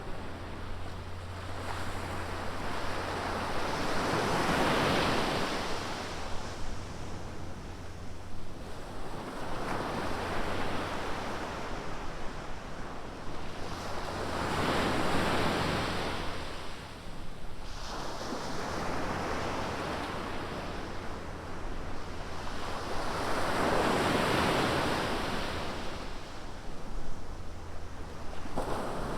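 Ocean surf: waves breaking and washing up the beach, the wash swelling and fading about every ten seconds, three times, over a steady low rumble.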